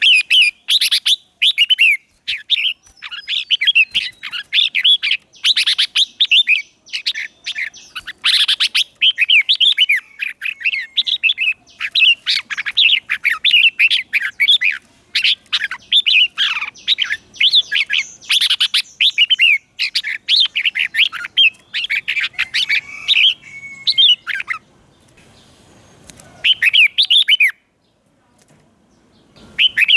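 Red-whiskered bulbul singing: quick runs of bright, warbled whistled phrases, one after another. The song breaks off about 25 seconds in, with a short burst near 27 seconds, then starts again at the very end.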